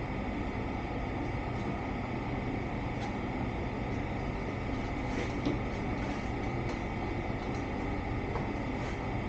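A machine running steadily, a constant drone with a steady tone in it, with a few faint taps over it.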